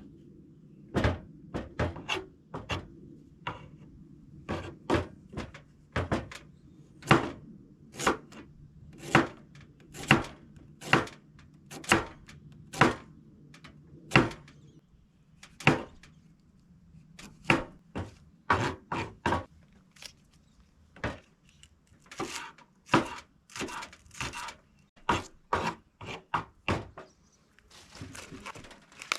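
Hammering on wood: about thirty sharp blows, roughly one a second, with quicker runs of strikes in places, as when nailing together a wooden birdhouse.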